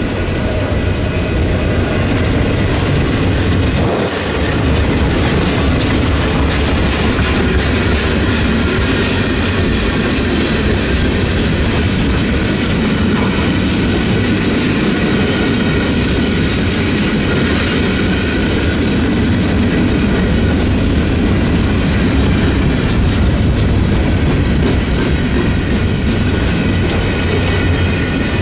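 A train rolling past on the rails, loud and steady, with faint high steady tones above the rumble.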